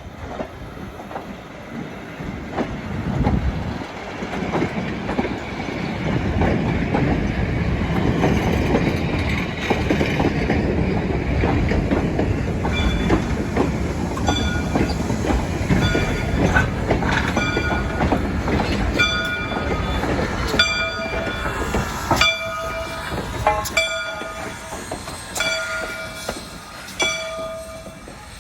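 Train passing close by, with a loud rumble and the clickety-clack of its wheels over the rail joints. From about halfway the rumble fades, and short ringing tones repeat about every second and a half.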